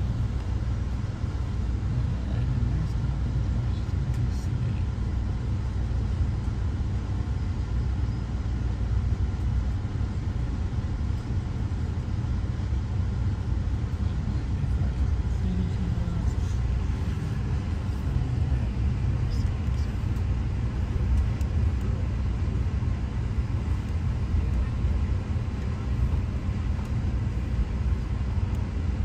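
Steady low rumble of an Amtrak passenger train under way, heard from on board.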